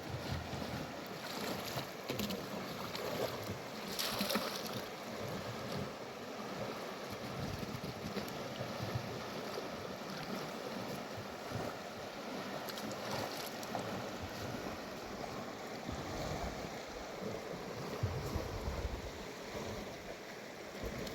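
Mountain river rushing steadily over rocks, with occasional low wind buffeting on the microphone.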